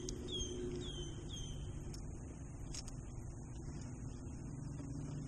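A bird calling four times in quick, falling whistled notes during the first two seconds, over a steady low motor hum, with a few light knocks.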